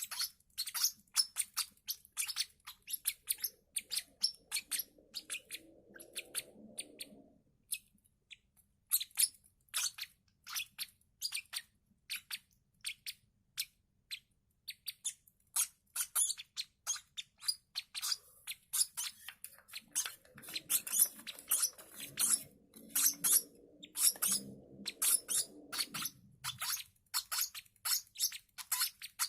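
Hand-fed lovebird chicks chirping in quick, short, high peeps, several a second. Twice, a lower sound lasting a few seconds joins in, once early and once in the second half.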